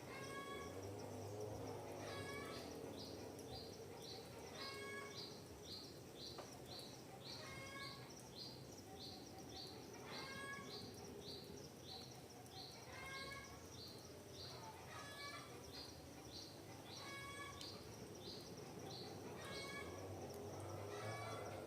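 Forest birds singing: a short, high chirp repeated about twice a second, with a lower call of several notes returning every two to three seconds.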